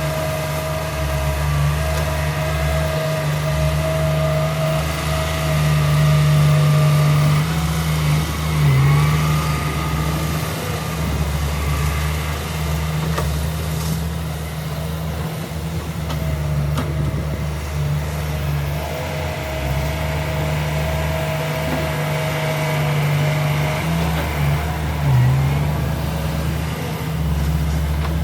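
Heavy diesel engine of earthmoving machinery running steadily while working, with a high steady whine over it for the first several seconds and again later. The engine note dips briefly twice.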